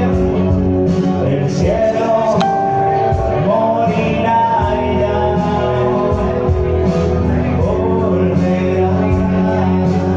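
Live rock music: a man singing over electric guitar, with a steady beat underneath.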